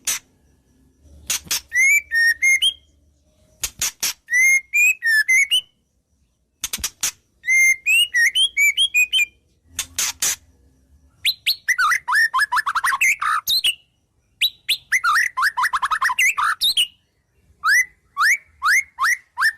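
White-rumped shama (murai batu) singing a varied song of mimicked wild-bird calls: separate phrases of sharp clicking notes and quick rising whistles, with two fast trills near the middle.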